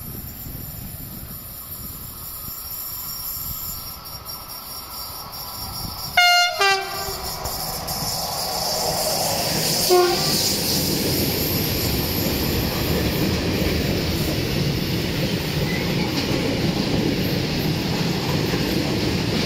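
Electric freight locomotive sounding its horn in a short loud blast about six seconds in and a brief second toot around ten seconds, as it runs through. Then its train of tarpaulin-covered freight wagons rolls past with a steady rumble of wheels on rail.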